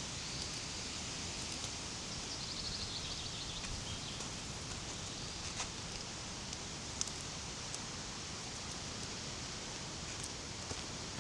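Steady outdoor background hiss with light rustling and a few sharp clicks. A small bird gives a short, rapid trill that falls in pitch about two seconds in.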